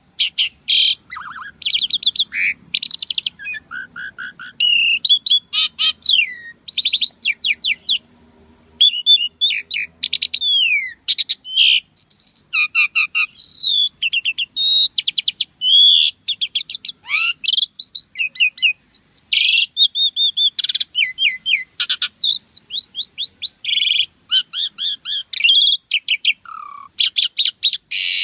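Jalak suren (Asian pied starling) singing vigorously: a fast, varied stream of short whistles, rising and falling slurred notes and rattling chatter, with hardly a pause.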